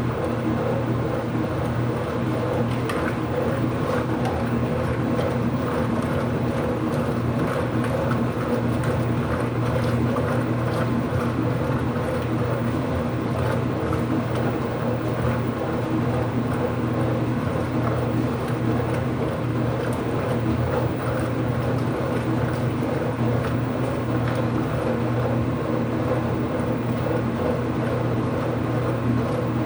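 Ipso top-load washing machine filling with water: a steady rush of running water under a constant low hum.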